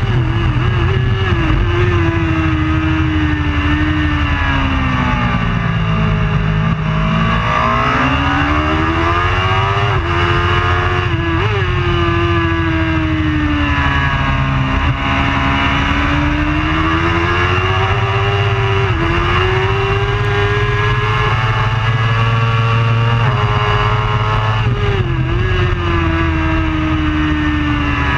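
Superbike race motorcycle engine running hard, its pitch sweeping down and back up several times as it slows and accelerates, with brief dips in pitch at gear changes.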